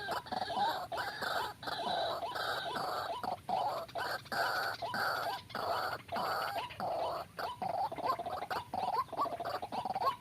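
White-breasted waterhen (ruak-ruak) calling: a steady run of short, repeated pitched notes, about two a second, with hardly a break.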